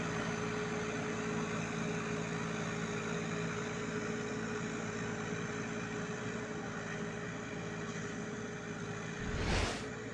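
Tractor engine running at a steady, even speed, with a brief low rumble near the end.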